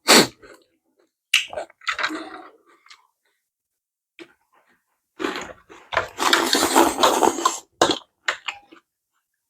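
A person eating noodles close to the microphone: chewing and mouth sounds in short, uneven bursts, with a longer, denser burst about six seconds in.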